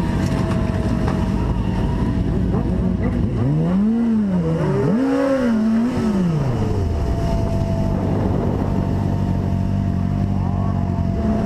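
A motor vehicle engine running steadily, revving up and back down twice about halfway through.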